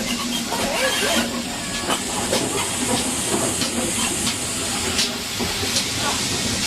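Steam locomotive hissing steam while standing, with a few scattered sharp knocks.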